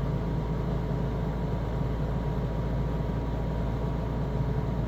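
18k Chill Cube air conditioner running steadily with its compressor ramped up to high power, the fan whirring over a low hum with a steady whine. The compressor has just changed tone, which the owner fears may mean the unit is defective.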